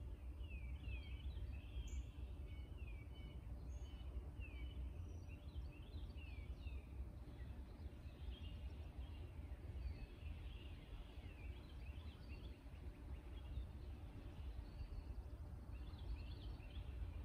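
Several birds calling and chirping, with a run of short, quick downward-sliding notes in the first half, over a faint, steady low outdoor rumble.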